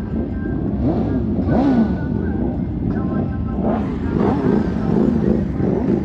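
Car engines running with some revving, mixed with crowd voices.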